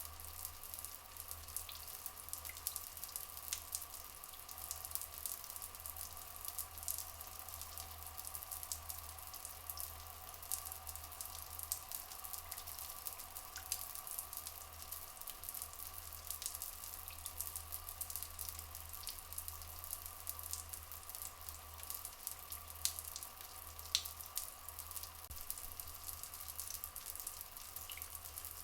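Flowing, trickling water with many small drips and splashes, over a steady faint drone.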